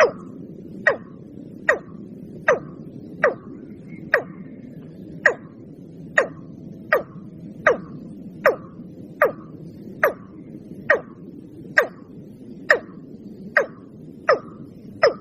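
Watercock calling: a steady series of short, sharp notes, a little more than one a second, each dropping quickly in pitch, over a low background noise. It is a recorded lure call used to draw the bird in.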